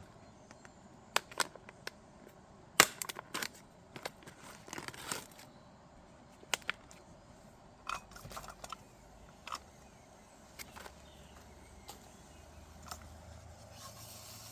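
Scattered clicks, taps and knocks of camping cooking gear being handled, irregular and sparse, the sharpest about three seconds in.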